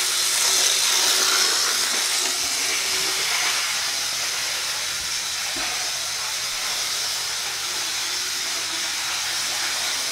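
HO scale model diesel locomotive running around the track: a steady hissing whir from its small motor and wheels on the rails, a little louder in the first couple of seconds.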